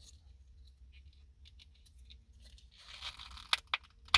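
Handling of an insulated tumbler's parts: quiet fiddling, then about two and a half seconds in a short scraping rustle followed by three sharp clicks, the last the loudest, as the tight-fitting pieces are worked together.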